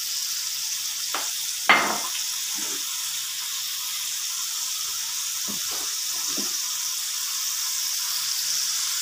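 Blended spice paste sizzling steadily in hot oil in a wok. There is one sharp clack about two seconds in and a few softer knocks a few seconds later.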